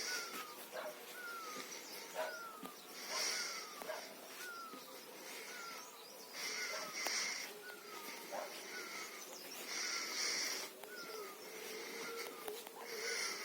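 Birds calling outdoors: one gives a short falling note over and over, about every two-thirds of a second, while another call comes in roughly every three seconds, buzzy and high.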